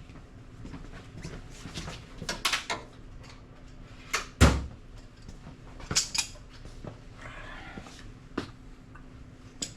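Hand tools clinking and knocking against metal suspension parts while cotter pins are bent over with pliers: a scatter of sharp clicks and taps, the loudest a heavy knock about four and a half seconds in.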